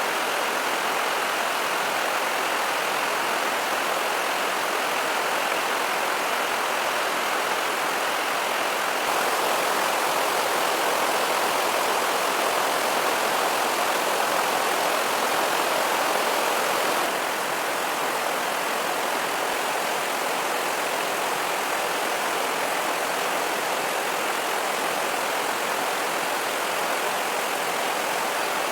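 Steady, even rushing noise with no distinct events, a little louder through the middle stretch.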